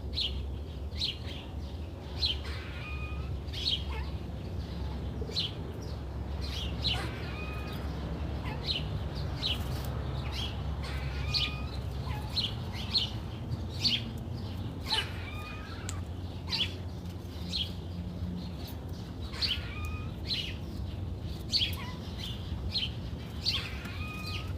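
Birds chirping: short, sharp high calls, roughly one a second, over a steady low rumble.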